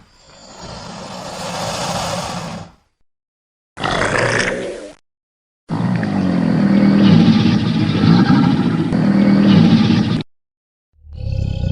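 Three separate animal roar sound effects cut together with silent gaps: a hissing growl that swells and fades, a short roar about four seconds in, and a longer deep, wavering growling roar from about six to ten seconds in. Another roar starts just before the end.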